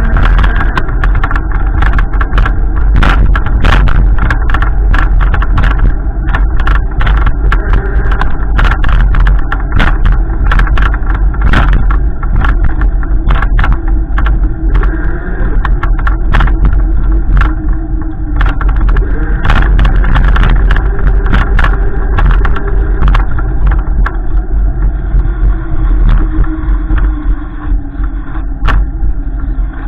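A car running, its engine pitch slowly rising and falling, with heavy low rumble and frequent sharp crackles throughout.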